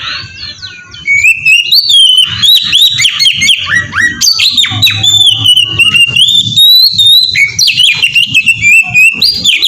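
Oriental magpie-robin (kacer) singing a loud, unbroken run of quick varied whistles, slurred glides and trills, softer for about the first second and then nonstop.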